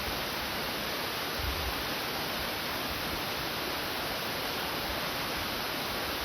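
Waterfall water streaming down a rock face, a steady rushing hiss that neither rises nor falls.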